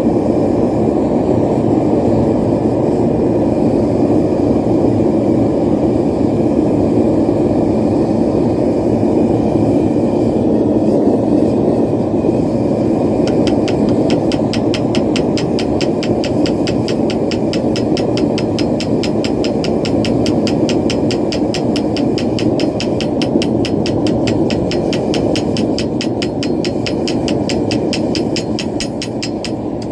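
Propane forge burner running with a steady, loud roar. From about halfway in, a fast, even series of light strokes, about four or five a second, runs on top of it until near the end.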